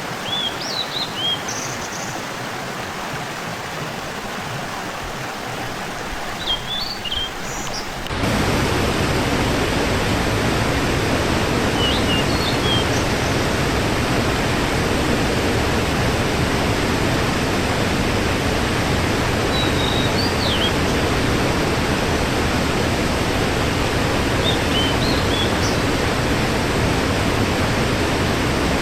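Waterfall, a steady rush of falling water that becomes louder about eight seconds in. Short whistled bird chirps come every few seconds over it.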